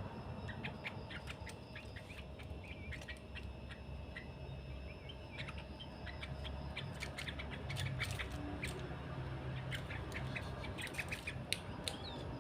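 Bulbuls giving short, sharp chirps in scattered runs, busiest in the second half, over a low steady hum.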